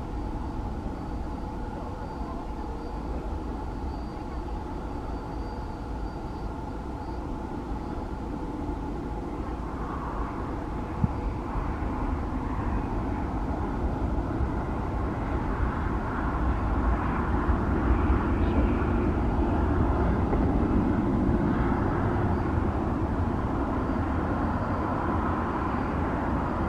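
Airbus A330neo's Rolls-Royce Trent 7000 jet engines running, a steady rumble that grows louder from about a third of the way in and stays loud to the end.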